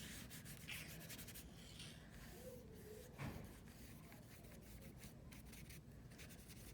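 Faint strokes of a paintbrush scratching on paper, with one louder soft bump about three seconds in.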